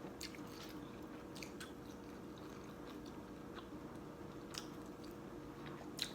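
A person chewing food close to the microphone, with small wet mouth clicks and smacks scattered through and a sharper click just before the end, over a faint steady hum.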